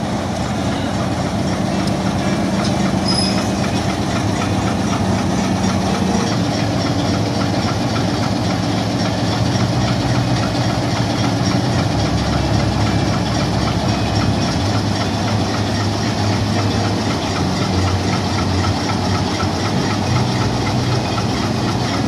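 Railway locomotive engine running steadily, a loud continuous drone whose low pitch shifts a few times.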